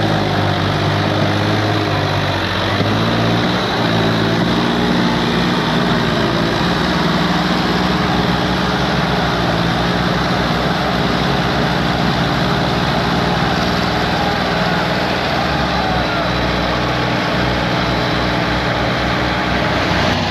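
Tractor diesel engines running hard under load in a tug-of-war. Their pitch wavers over the first few seconds, then holds steady with a low, fast pulsing.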